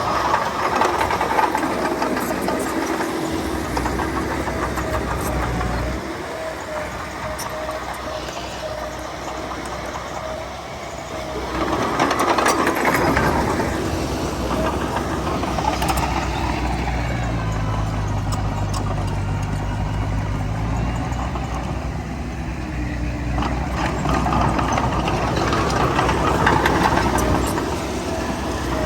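Heavy diesel engine of a bulldozer running under load, rising and falling, with louder surges about a second in, about twelve seconds in and near the end.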